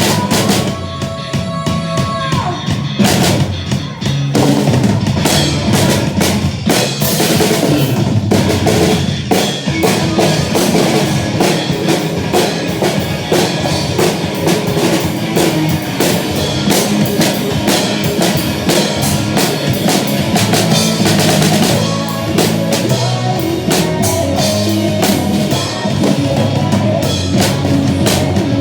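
Drum kit played at a steady rock beat, with kick drum, snare and cymbals, along with recorded band music.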